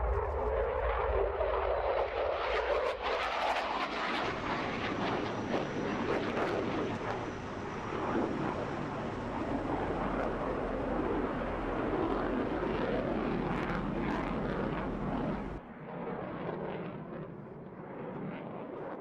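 F-16 fighter jet's engine roar during a display flight, steady and full. Near the end the roar abruptly turns duller and a little quieter.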